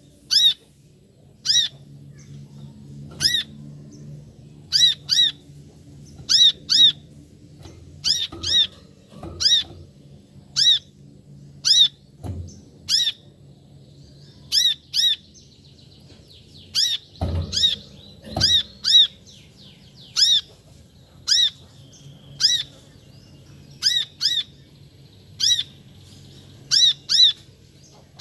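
Brown-throated sunbird (kolibri kelapa) giving its call: short, sharp, high notes, mostly in pairs, repeated every second or two. A few dull low thumps sound about 12 and 17 seconds in, over a faint low hum.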